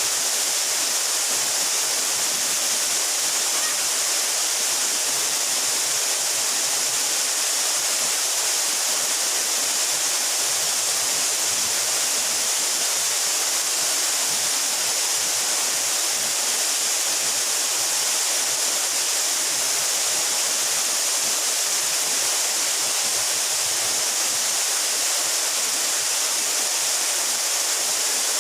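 Mountain waterfall, about 12 metres high, pouring steadily: a continuous, even hiss of falling water.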